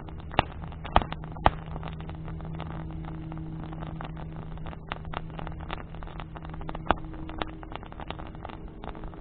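Wood bonfire crackling, with frequent small snaps and a few loud pops, four of them standing out. Under it runs a steady low hum.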